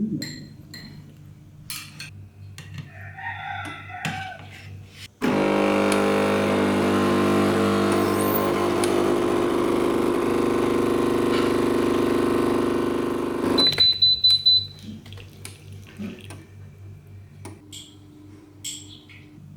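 A kitchen appliance hums loudly and steadily for about eight seconds, then stops abruptly and gives a quick string of high beeps, as when a timed cycle finishes. Faint clinks of dishes come before it.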